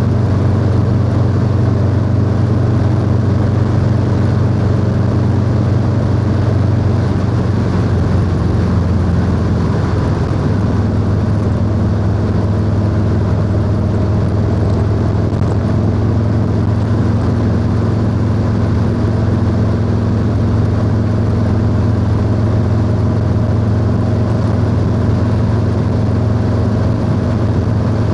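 Harley-Davidson Low Rider S V-twin running through a 2-into-1 exhaust while cruising. The engine note changes about ten seconds in, then holds steady.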